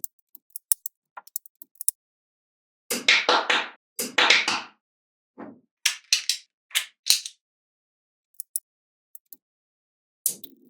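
Small magnetic balls clicking and snapping together: a quick run of sharp clicks, two longer rattling clatters about three and four seconds in, then more clicks and a few faint ticks.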